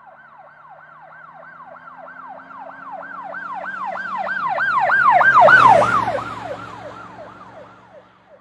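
Emergency vehicle siren on a fast yelp: rapid repeating falling sweeps, about three or four a second. It grows louder as the vehicle approaches, peaks about six seconds in with engine and road noise beneath it, then fades as it passes.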